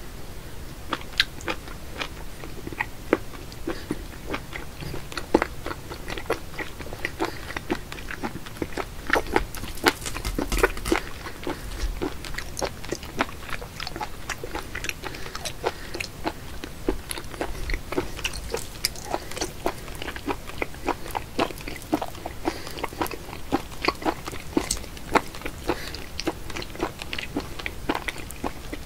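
Close-up chewing of raw live octopus: a run of wet, irregular mouth clicks and smacks, several a second.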